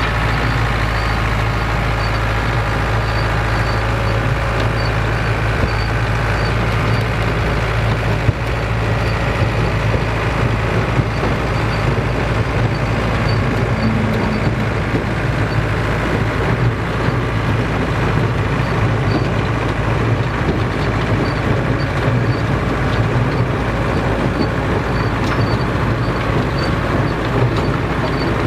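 Vintage farm tractor engine running steadily under load in the field, with a faint, regular high-pitched ticking from the machinery.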